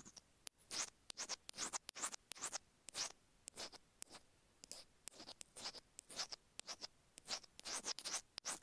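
Stainless steel ear pick scratching along the grooved plastic of an earphone microphone, picked up up close: short rasping strokes, several a second, with brief pauses between them.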